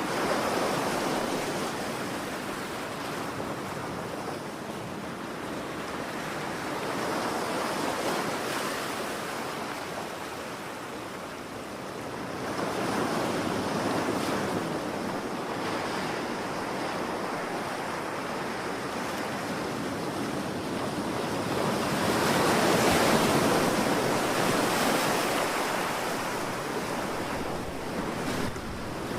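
Ocean waves breaking and washing up on a shore, a steady rush of surf that swells and ebbs in slow surges, the biggest one about two-thirds of the way through. Some wind is mixed in.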